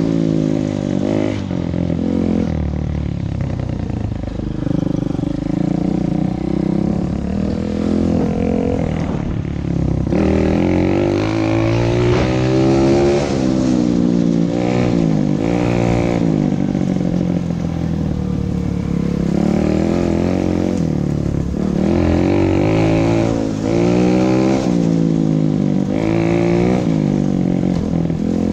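Motorcycle engine running under way, its pitch climbing and dropping again and again as it revs up and shifts.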